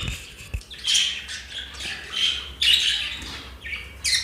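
Cage birds giving a series of short, harsh squawking calls, one roughly every half second.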